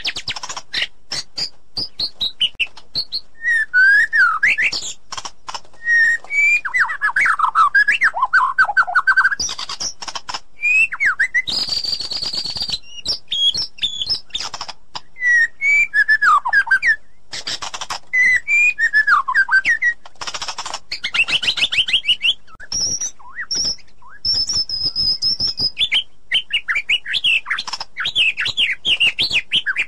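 White-rumped shama singing a long, varied song without pause: whistled sweeps and fast trills, mixed with sharp clicks and a few harsh, rasping notes.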